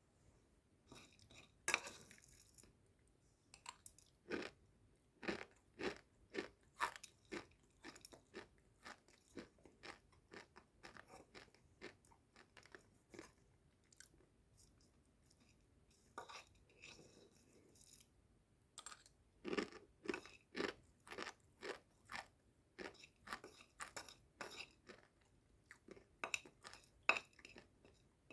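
Close-up crunchy chewing of a dry snack, Wai Wai instant noodles eaten dry: a run of sharp crunches, about one to two a second, with a few short pauses.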